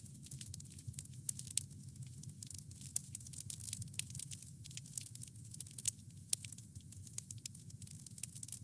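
Wood fire crackling steadily, with irregular sharp pops and snaps over a low, steady rumble of the flames.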